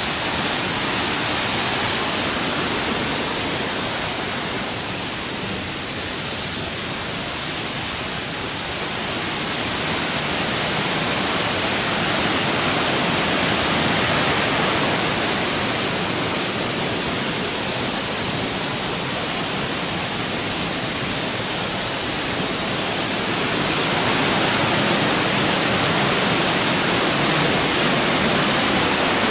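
Steady rush of fast-flowing water, swelling and easing slightly and a little louder near the end.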